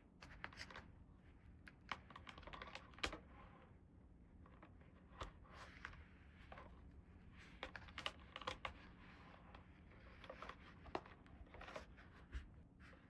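Small plastic toy pieces being handled: irregular light clicks and taps with soft scratching and rustling between them, the sharpest click about three seconds in.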